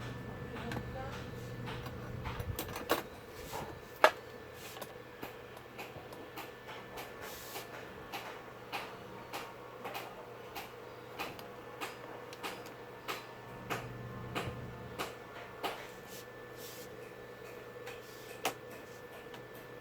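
Scattered light clicks and taps of tools and parts being handled at a workbench, with a sharper knock about four seconds in, over a faint steady hum.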